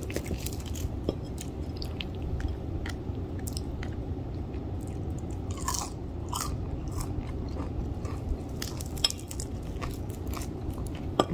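Close-up chewing of crispy fried chicken wing: scattered crunches and wet mouth clicks as the meat is bitten and eaten, with a few louder crunches near the middle and end.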